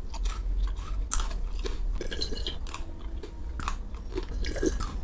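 Chocolate-dipped biscuit sticks (Ticky, then Pocky) being bitten and chewed close to the mic: irregular crisp crunches, several each second.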